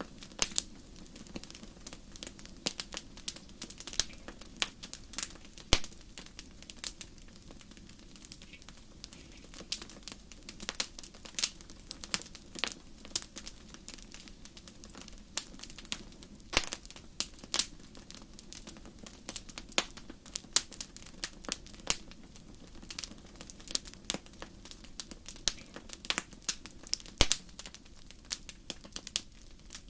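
Wood fire crackling in a fireplace: irregular sharp pops and snaps, several a second, over a low steady hiss of the burning logs.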